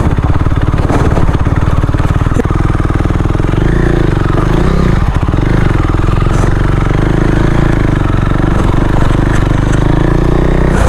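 Motorcycle engine running steadily under load on a badly broken off-road track, with a shift in engine pitch about four to five seconds in.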